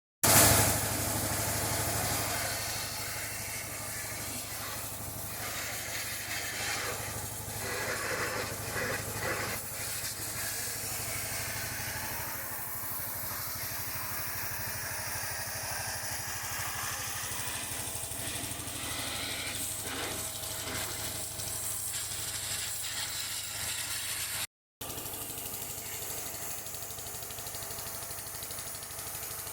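Hissing spray over a steady low hum of a running motor during a car engine wash, with a loud burst at the very start and a brief dropout about 25 seconds in.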